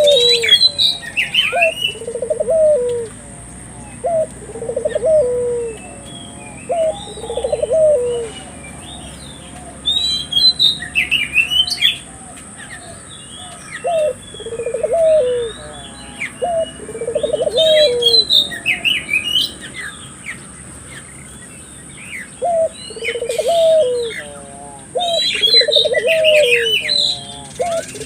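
Barbary doves (burung puter) cooing in repeated rolling phrases every second or two, with a few pauses. Higher chirps from smaller birds come in clusters over them. It is lure song meant to set local doves cooing.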